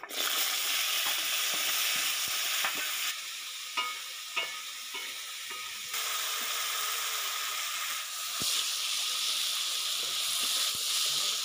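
Diced potatoes sizzling in hot oil in a karai. The sizzle starts suddenly as they go in and holds steady. A few short knocks of a wooden spatula against the pan come a few seconds in, as the potatoes are stirred.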